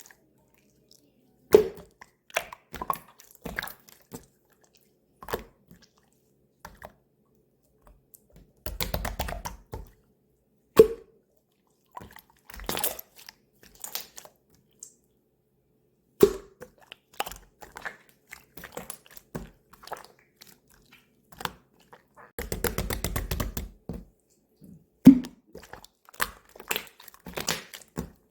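Pink glitter slime being pressed, poked and stretched by hand: scattered sticky clicks and pops, with two spells of dense crackling, about a third of the way in and again near the end.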